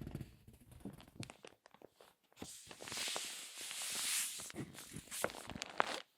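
Crinkly magazine paper being handled: pages turned and squeezed in the hands. It starts with scattered crackles, builds to a dense crinkling rush about halfway through, then goes back to crackles and stops suddenly near the end.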